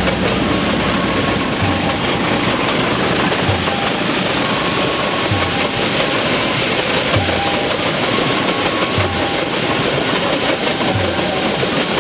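Train climbing a steep grade: a loud, steady rail rumble with a low thump about every two seconds.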